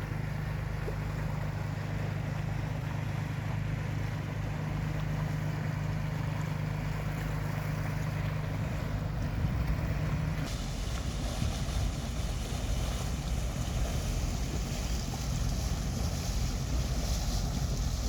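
Boat engine giving a steady low drone under wind and water noise. About ten seconds in the drone fades from prominence and a broader rush of wind and water takes over.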